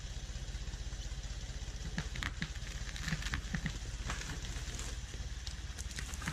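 An engine idling steadily with a low, even throb. Scattered light crackles and clicks come in from about two seconds in.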